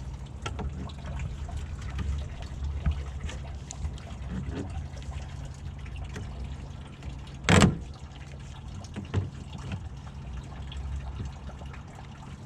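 Engine coolant trickling out of the radiator drain into a pan, with small clicks of plastic being handled and one sharp knock about seven and a half seconds in.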